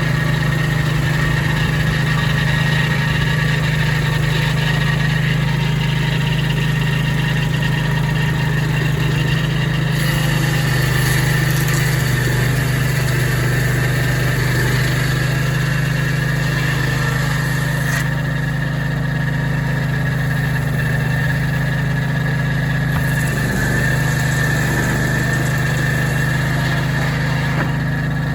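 Brand X portable sawmill's engine running steadily, with a constant low engine tone and a thin steady whine above it.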